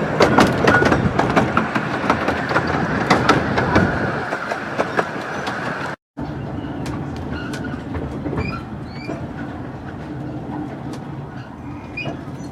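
A miniature 15-inch gauge train running past, its wheels clicking rapidly over the rail joints over a loud rumble. The sound breaks off about six seconds in, then a quieter steady rumble of the train continues and fades, with a few short high squeaks.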